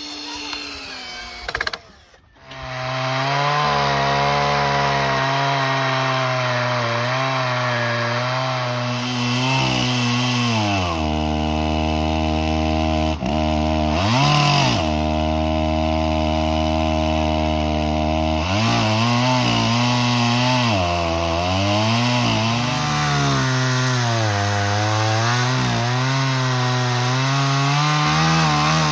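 Chainsaw engine of a portable sawmill running under load through a log, its pitch sagging and recovering as the cut goes on. It cuts in about two seconds in after a brief lull.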